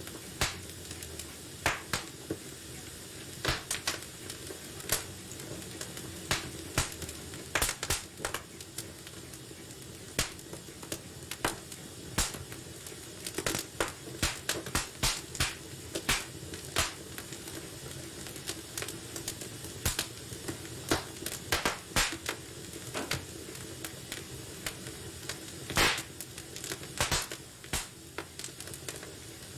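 Wood fire burning in a fireplace: a steady low hiss and rumble with irregular sharp crackles and pops, thicker in a few flurries, and one loud pop near the end.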